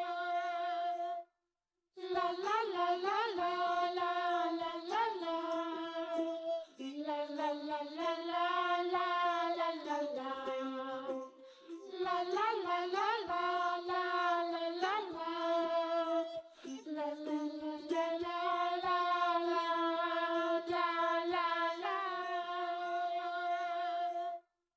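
A children's song sung by a high, child-like voice, a melody of long held notes. It breaks off for a moment of silence about a second in.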